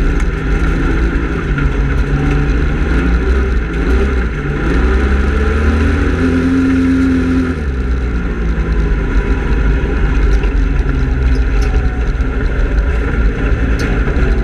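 Speedway race car engine running hard, its pitch rising and falling with the throttle. About six seconds in it holds one steady high note for a second or so, then drops away.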